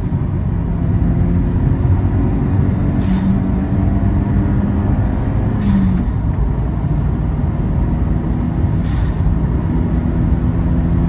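Toyota Celica GT-Four's turbocharged 3S-GTE four-cylinder heard from inside the cabin while being driven, a steady engine drone over road noise. A brief hiss cuts through about three, six and nine seconds in.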